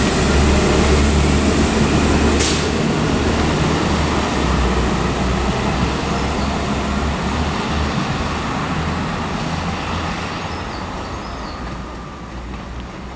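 Northern Ireland Railways Class 4000 diesel multiple unit moving away along the track: a low engine hum and wheel noise that fade steadily as it recedes, with one sharp click about two and a half seconds in.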